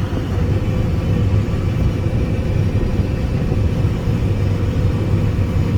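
Combine harvester running steadily, a low drone with a constant whine, heard from inside the cab.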